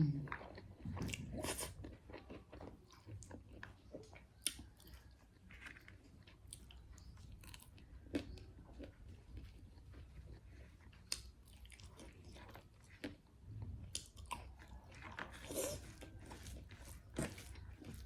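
A person chewing and biting food, with short crunches and mouth clicks coming irregularly throughout.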